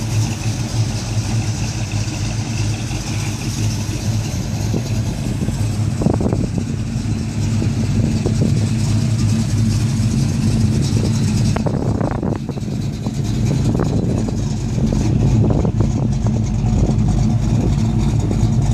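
Classic Chevrolet Chevelle's engine running at low speed as the car rolls slowly past, a steady low engine note that grows a little louder near the end.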